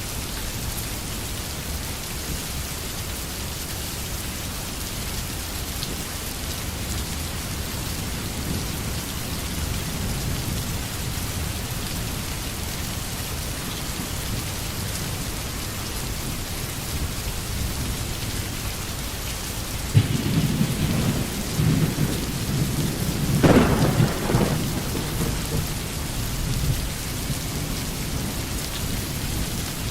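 Steady rain falling. About two-thirds of the way through, a sudden clap of thunder breaks in and rumbles for several seconds before fading back into the rain.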